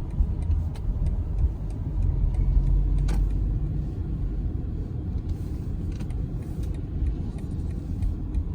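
Inside a moving car: the steady low rumble of engine and road noise as it drives slowly, with a single short click about three seconds in.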